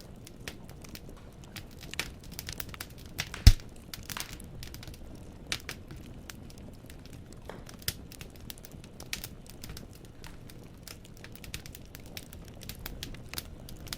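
Firewood burning in a fireplace, crackling with irregular snaps and small pops over a low steady noise, and one loud pop about three and a half seconds in.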